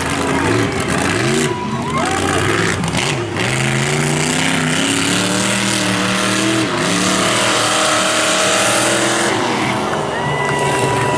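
Monster truck engine, loud, revving up and down repeatedly with its pitch climbing and dropping in steps. A steady high whine comes in near the end.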